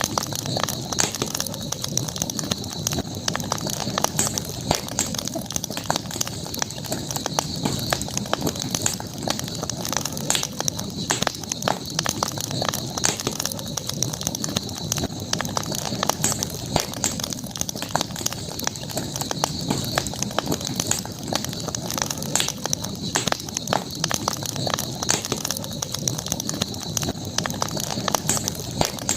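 Campfire burning, with frequent small crackles and pops from the wood scattered irregularly throughout, over a steady high-pitched tone in the background.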